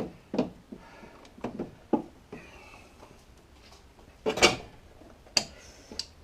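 Metal tools knocking and clanking against engine parts as the engine is stripped for removal: a series of separate sharp knocks, the loudest about four seconds in.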